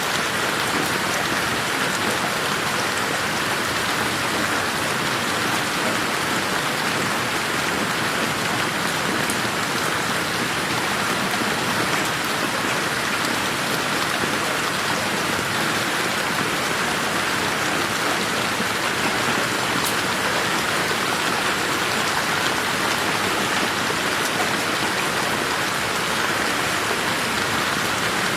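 Steady rain falling on a garden, an even hiss of drops with faint scattered patters, unchanging throughout.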